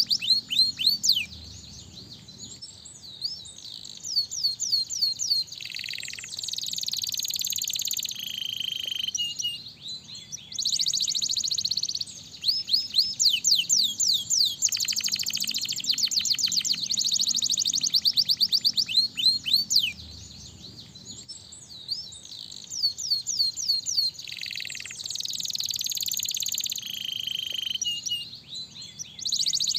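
Canary singing: long trills and rolls of fast, rapidly repeated sweeping notes, in phrases broken by short pauses. The same phrases come round again about twenty seconds apart, as in a looped song recording.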